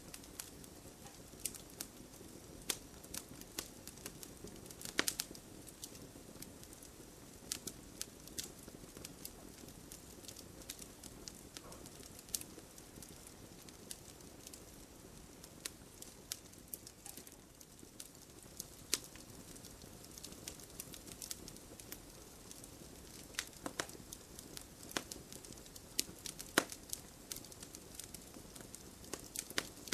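Wood fire burning in a fireplace: a steady low rush of flame with irregular sharp crackles and pops scattered throughout.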